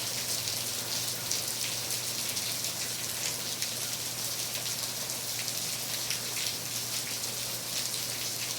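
Heavy downpour: a steady, even hiss of rain with many small drop hits.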